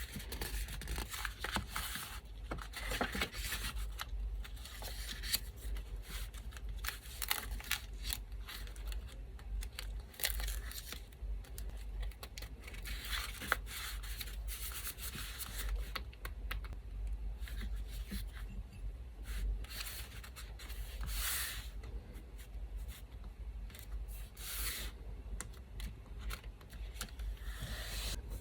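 Paper being handled up close: scraps torn, rubbed and pressed down in short irregular strokes, over a steady low hum from an electric fan.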